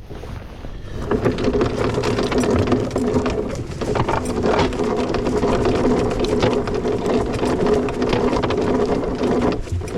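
Anchor windlass motor running with the chain rattling through it, paying out anchor chain; it starts about a second in and stops abruptly just before the end.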